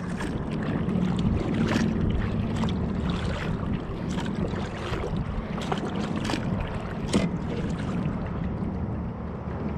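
Kayak being paddled: water sloshing along the hull with scattered clicks and knocks, under steady wind noise on the microphone.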